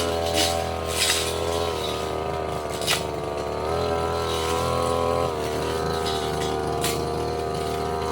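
Brush cutter engine running fast, its pitch dipping and recovering several times as the metal blade bites into undergrowth, with a few sharp clicks of the blade striking stems.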